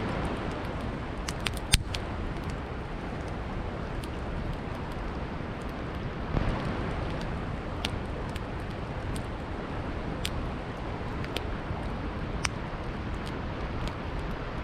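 Campfire crackling, with scattered sharp pops of burning wood (one louder snap about two seconds in), over a steady rush of flowing river water.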